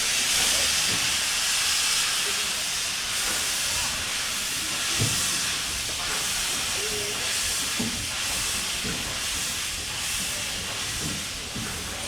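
Steady hiss of steam from a narrow-gauge steam locomotive pulling out of the station, with a few scattered clanks, gradually getting quieter.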